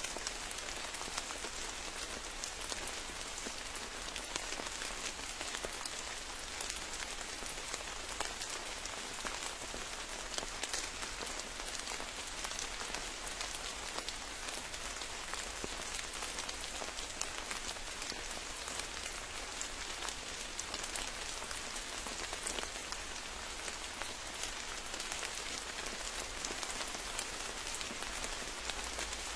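Steady rain falling, with a dense patter of drops striking surfaces.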